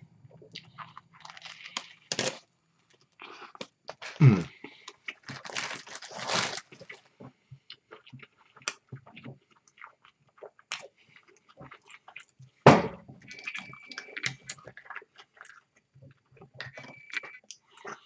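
Close-up chewing of a mouthful of fried chicken tender sub: irregular crunching and wet mouth clicks, with a couple of louder moments about four and thirteen seconds in.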